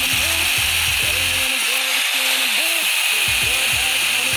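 Mini angle grinder cutting through steel weld, a steady high hiss, under background music.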